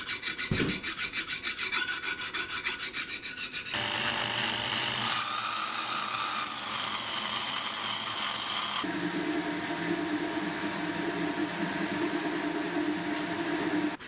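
Scraping and rubbing on the Schaublin machine slide. Quick even strokes come at about five a second, then give way to a steady rasping with a faint whine that changes abruptly twice.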